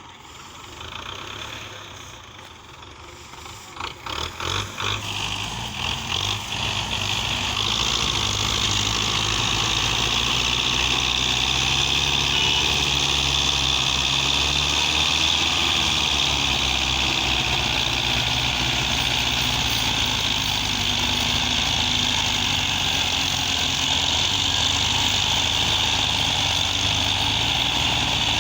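Tractor engine, uneven and building in level with irregular pulses over the first several seconds, then running steadily.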